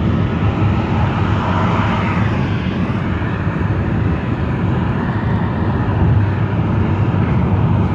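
Steady rumble of a moving road vehicle's engine and tyres, with a brief swell about a second to three seconds in.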